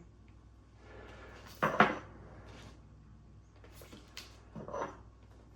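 Objects being handled and set down: a clatter about one and a half seconds in and a softer knock near the end.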